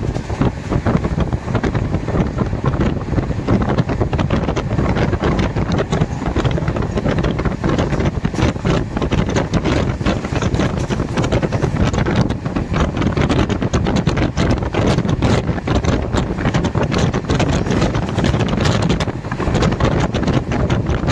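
Express train running at speed, a steady low-heavy rush of wheels on the rails, with wind buffeting the microphone.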